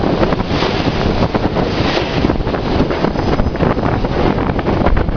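Metro-North electric multiple-unit express train passing close at speed: a loud, steady rush of wheels on rail, with wind buffeting the microphone.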